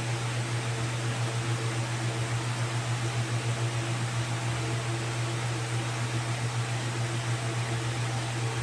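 Steady low mechanical hum with an even hiss over it, fluttering slightly in loudness, like a fan or similar appliance motor running.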